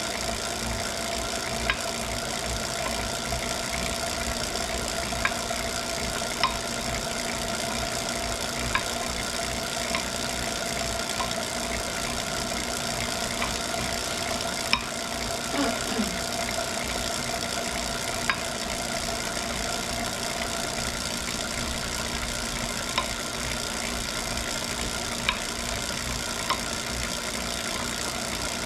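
Wahoo Kickr Core direct-drive smart bike trainer running with a steady whir, broken by sharp knocks at irregular intervals of about one to three seconds: the unwanted knocking fault of the trainer.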